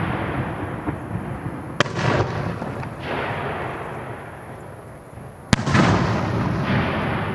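Aerial firework shells bursting: two sharp bangs about four seconds apart, each followed by a long rolling echo that slowly fades.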